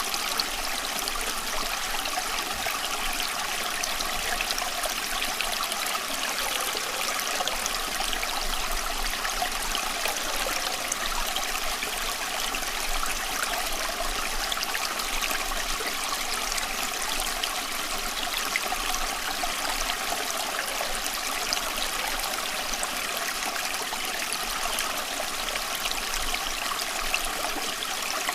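Running water flowing steadily, an even rushing and trickling that does not change.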